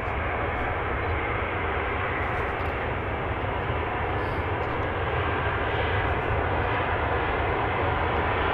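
Airliner engines at an airport, a steady rushing roar that slowly grows louder.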